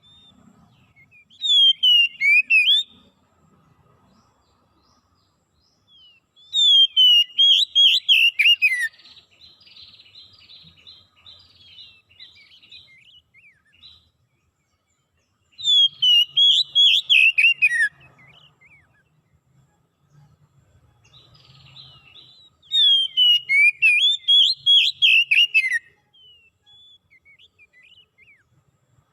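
A songbird singing four loud phrases of quick, high whistled notes, each a second and a half to three seconds long, with pauses of several seconds between them. A softer, scratchy twitter follows the second phrase.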